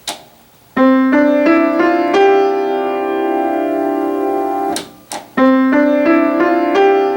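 Piano playing a rising five-note figure, each note struck staccato with the sustain pedal down, so the notes ring on and blend into one resonance. The figure stops briefly about five seconds in, with a couple of soft clicks, and then starts again.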